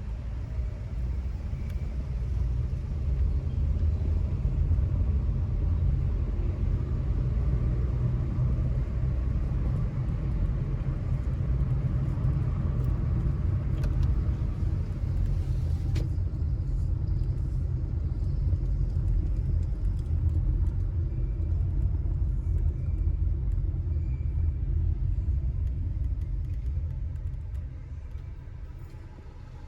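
A moving car's steady low rumble of road and engine noise, which drops off and gets quieter near the end.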